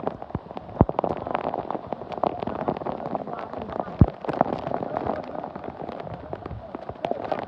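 Indistinct voices under a busy clatter of knocks and bangs, with two sharper knocks, one just under a second in and one about four seconds in.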